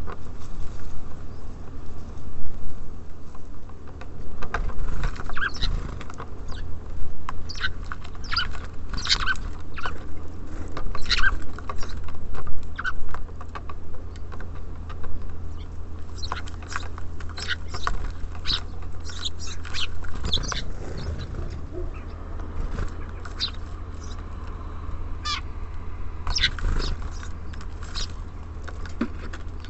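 Small songbirds chirping: short, high calls in quick irregular clusters, over a steady low rumble.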